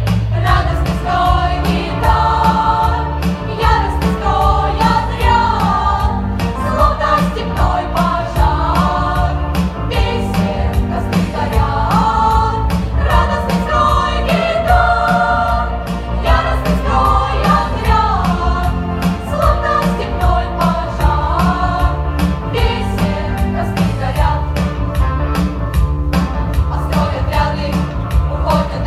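Children's choir singing a Komsomol-style song in unison over an instrumental accompaniment with a steady beat.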